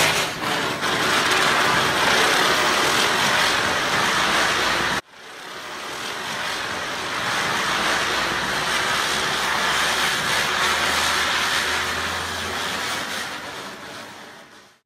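Burning Diwali chakri (ground-spinner firework) fizzing with a loud, steady hiss as it spins and sprays sparks. The hiss breaks off sharply about five seconds in, starts again at once and dies away near the end.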